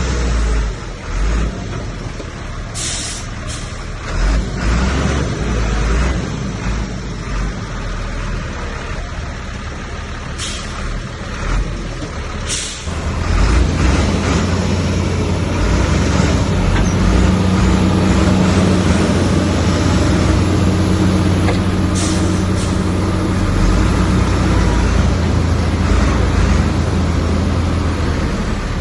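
Heavy diesel engine of earthmoving machinery running, with several brief sharp noises in the first half; about halfway through the engine grows louder and settles into a steady, deep drone under load.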